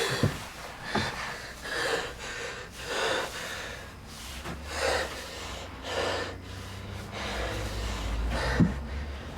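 A person breathing hard, gasping in and out about once a second. A low drone comes in near the end.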